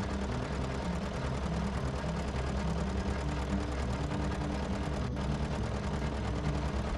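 Tractor engine running steadily with a low drone, with one short click about five seconds in.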